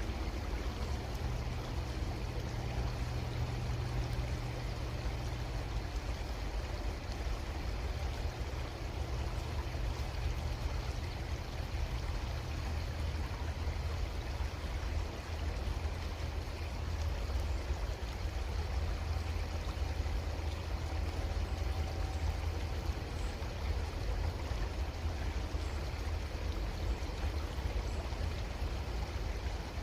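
Creek water flowing steadily, a continuous rushing with a low rumble underneath.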